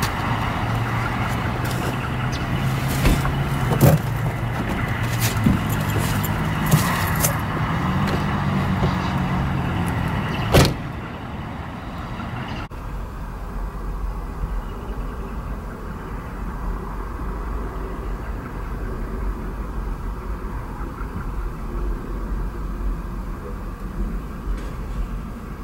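A vehicle sound. The first half is a clattering with many sharp clicks over a wavering hum, with a loud click about ten seconds in. It then changes abruptly to a steady low vehicle rumble.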